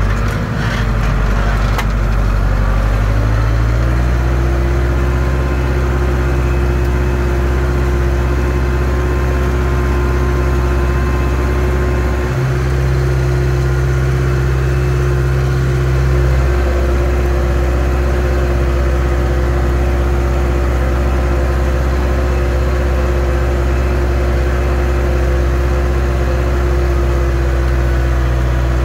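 Zetor 6245 tractor's four-cylinder diesel engine running steadily under load while pulling a three-furrow reversible plough. Its pitch rises over the first few seconds, with a few clicks near the start, and its tone shifts briefly about twelve seconds in.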